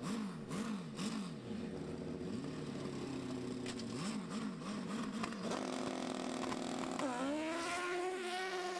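Nitromethane-fuelled drag racing dirt bike engine revved in quick blips about twice a second, then held at a steady note. Near the end the pitch dips and climbs as the bike accelerates.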